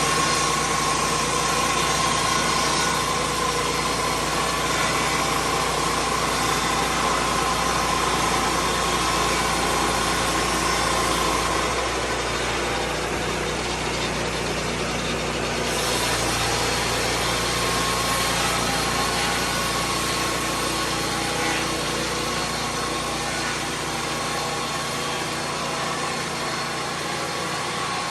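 Lucas Mill 10-30 swing-blade sawmill's engine running steadily, its sound shifting for a few seconds in the middle before settling back.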